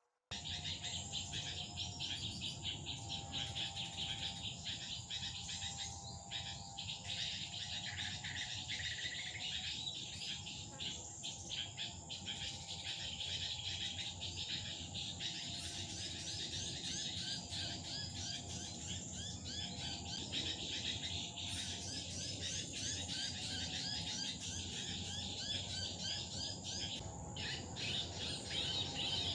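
Small birds chirping rapidly and continuously over a steady, high-pitched insect drone.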